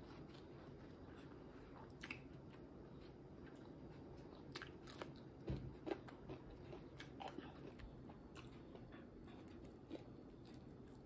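Close-up mouth sounds of chewing fried sunny-side-up eggs: scattered soft wet clicks and crunches, the loudest a little past the middle.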